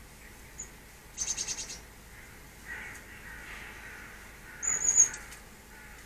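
Small garden birds calling: a quick run of about seven high chattering notes about a second in, softer warbling notes in the middle, and a louder short high call near the end.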